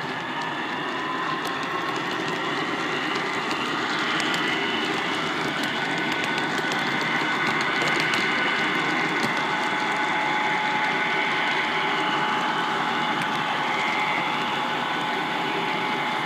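Model train running on a layout: a steady rumble of wheels on track, with a slowly rising motor whine and light clicks.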